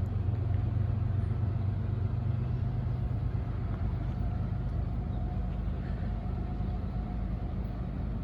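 CSX freight train running by with its diesel locomotives, a steady low rumble with a faint steady hum above it, easing slightly a few seconds in.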